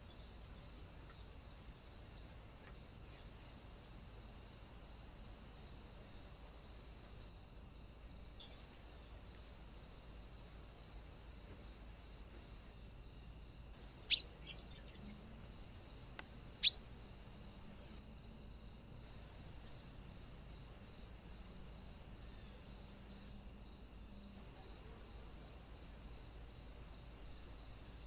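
Two short, sharp bird calls falling in pitch, about two and a half seconds apart, over a steady high hiss with faint regular pulsing.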